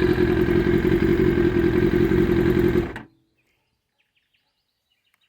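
Kawasaki Ninja ZX-6R's inline-four engine running steadily at idle through an exhaust the owner thinks is probably aftermarket, then switched off about three seconds in, cutting out suddenly. Faint bird chirps follow.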